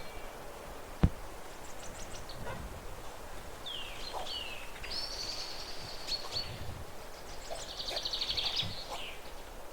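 Small birds calling over a steady outdoor background hiss: a few falling chirps, a held high note, then a fast trill near the end. A single sharp thump about a second in.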